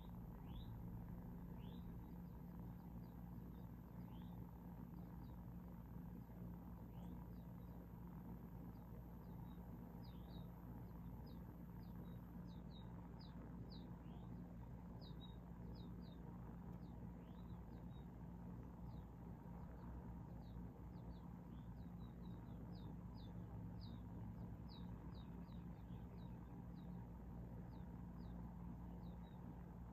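Small birds, finches and sparrows, cheeping: many short, high, downward-sliding chirps, scattered at first, then coming thick and fast from about ten seconds in. A faint steady low hum runs underneath.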